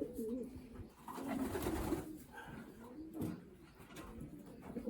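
Young racing pigeons cooing, a series of low wavering coos.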